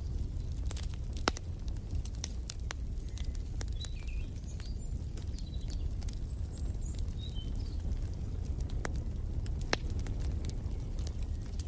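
Crackling wood fire in a fireplace: irregular sharp pops and snaps over a steady low rumble. Faint high bird chirps come through in the middle.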